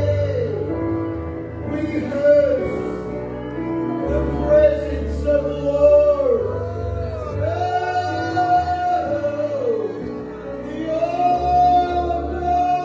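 Live gospel worship music: a voice holding long sung notes that slide down at their ends, over a steady bass.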